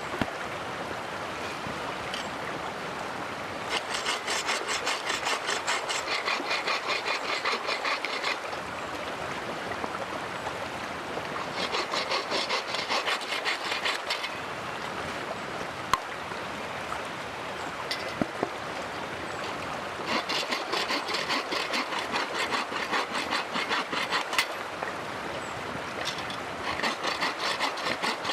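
Hand bow saw cutting through wood in four bouts of quick, even back-and-forth strokes, with pauses between them.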